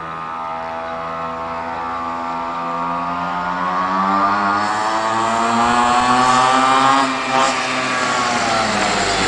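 Mini motorbike engine accelerating hard, its buzzing pitch climbing steadily and getting louder for about seven seconds, then briefly dropping and dipping in level before picking up again near the end.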